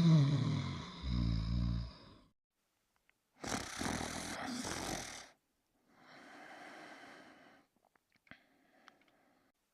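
Cartoon snoring sound effects: a series of separate snores, the first loud and pitched, a noisier one about three seconds later and a fainter one after that, with two small clicks near the end.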